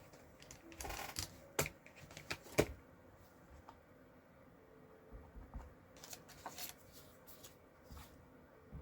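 Cardstock and stamping supplies being handled on a craft table: a short paper rustle about a second in, then scattered sharp clicks and taps.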